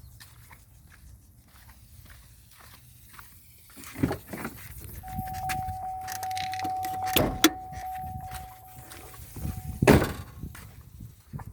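Footsteps, then a pickup truck's door opening with a thump. A steady electronic warning tone sounds in the truck for about four seconds, with a few knocks over it, and the door shuts with a loud slam just before the end.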